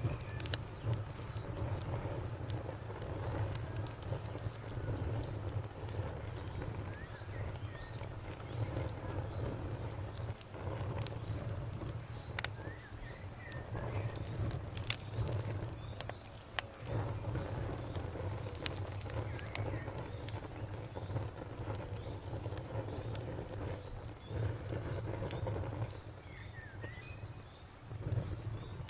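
Wood fire crackling with frequent sharp pops over a low rumble, while a cricket chirps in a steady rapid pulse and a bird gives a few short chirps.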